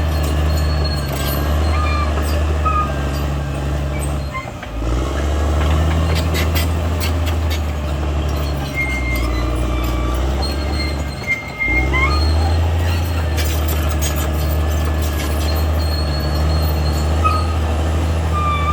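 CAT D6R XL bulldozer's diesel engine working under load, with a steady low drone that dips briefly twice, about four and a half and eleven and a half seconds in. Occasional clanks and short high squeaks from the running gear come through over the engine.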